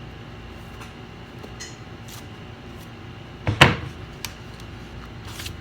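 Handling noise on a workbench as a laptop is made ready for testing: a few light clicks and one louder knock about three and a half seconds in, followed by a smaller click, over a steady background hum.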